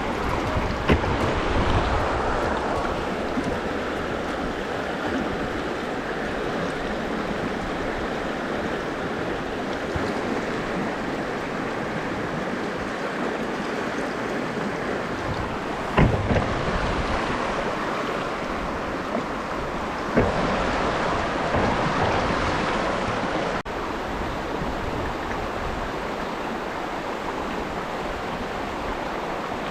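Mountain stream rushing steadily, with a few short knocks about a second in, around the middle and a little after.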